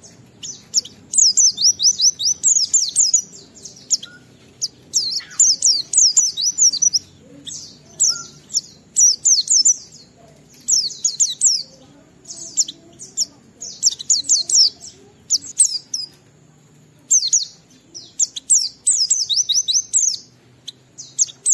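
A white-eye (pleci) singing in rapid, high, twittering phrases. Each phrase is a quick run of thin downward-sweeping notes, half a second to a second long, with short pauses between.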